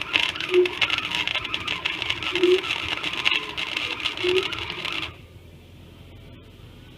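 Arc of a small 90-amp flux-core wire welder crackling steadily as it runs a bead on a steel patch, then cutting off suddenly about five seconds in.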